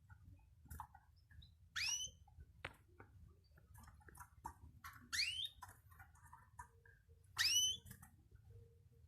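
Pet cage bird giving three loud, rising calls about every two to three seconds, with small chirps and clicks between them.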